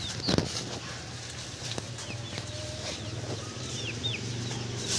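Birds chirping in short, high, falling notes every second or so, over a steady low hum. A brief knock sounds just after the start.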